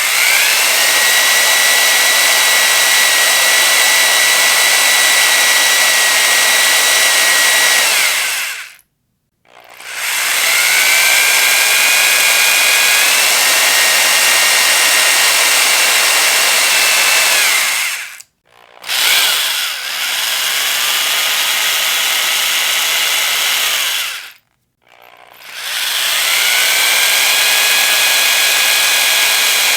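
Electric power drill running in long bursts of several seconds: a loud high-pitched whine over a grinding noise, which climbs in pitch as the motor spins up and then holds steady. It cuts out three times, about 8, 18 and 24 seconds in, and restarts each time; the third run is the shortest.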